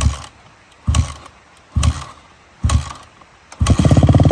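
Dirt bike being kick-started: four short bursts from kicks that don't catch, about a second apart. On the fifth kick, about three and a half seconds in, the engine fires and keeps running.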